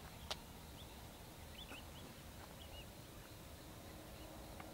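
Faint outdoor ambience: a low, steady rumbling hiss with several short, high bird chirps scattered through it, and one sharp click just after the start.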